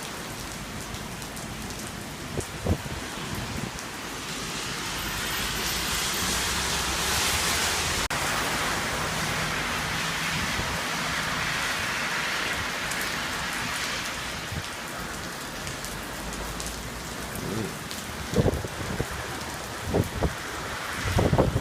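Heavy thunderstorm rain pouring steadily, swelling louder for several seconds in the middle. Near the end, fierce wind gusts buffet the microphone in low thumps.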